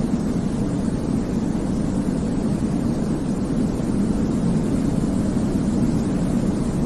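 Steady, unbroken white noise for infant sleep, weighted toward the low end so it sounds like a deep, even rumble rather than a bright hiss.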